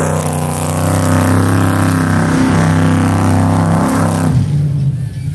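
Race vehicle's engine running at a steady pitch, the note easing and changing near the end.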